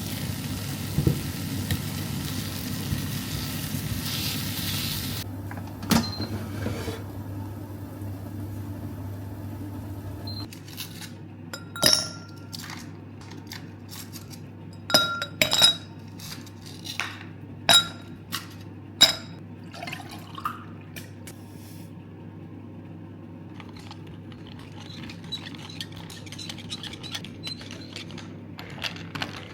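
Dishes, glassware and cutlery clinking in a kitchen: half a dozen sharp clinks with short ringing tails in the middle. Before them there is a steady hiss, and a low hum cuts off about ten seconds in.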